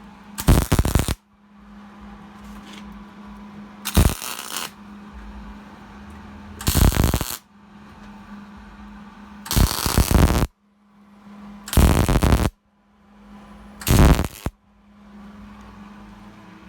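Wire-feed MIG welder laying six short crackling welds of about half a second to a second each, with a pause of two or three seconds between them. A steady low hum runs underneath.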